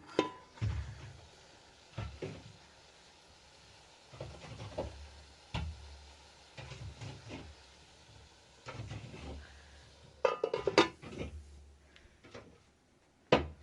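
Scattered knocks and clatter of objects being handled, with a denser run of ringing clinks about ten seconds in.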